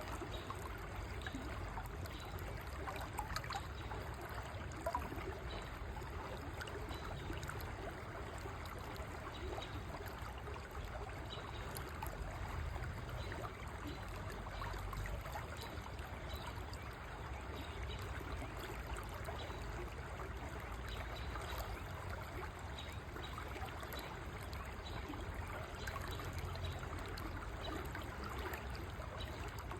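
River water flowing steadily, a continuous rushing and trickling.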